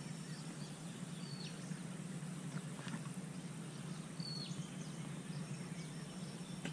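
Open marsh ambience: a bird gives a short, high whistled call every few seconds, each note dropping in pitch, over a steady low background hum.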